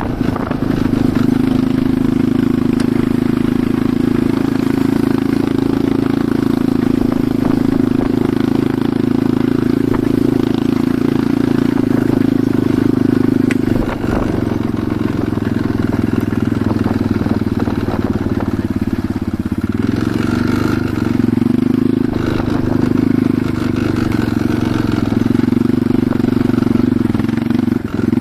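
Enduro motorcycle engine running while riding, a steady engine note that dips briefly about halfway and wavers up and down in revs a few seconds later.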